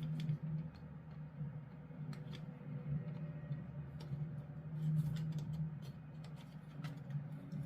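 Small, sparse plastic clicks and ticks as plastic model kit pieces are handled and worked loose, over a steady low hum.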